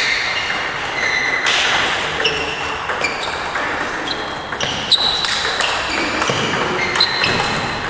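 Table tennis balls clicking off bats and table, many short ringing pings at irregular spacing in an echoing hall.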